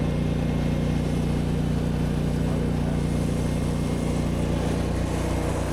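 Pressure washer's gas engine running steadily at constant speed.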